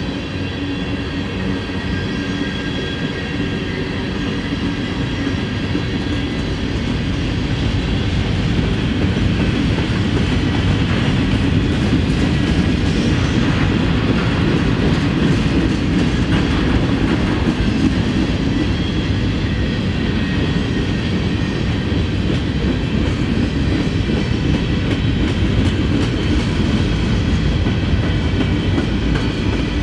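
A freight train's tank cars and covered hopper cars rolling past at trackside: a steady rumble of steel wheels on the rails, getting a little louder about seven seconds in.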